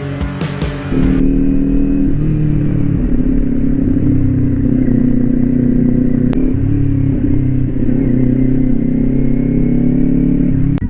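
Background music for about the first second, then a Kawasaki Ninja 400's parallel-twin engine running steadily through an SC Project slip-on exhaust fitted with its dB killer.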